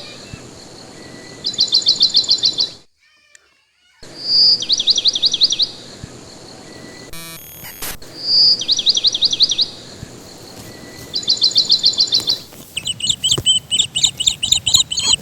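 A songbird singing the same short phrase over and over: a clear high note followed by a rapid trill of about ten notes, every three to four seconds. Near the end it changes to a quicker run of chirps.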